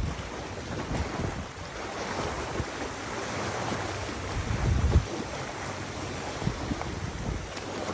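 Wind gusting across the microphone over a steady rushing of water, with a stronger low buffet about five seconds in.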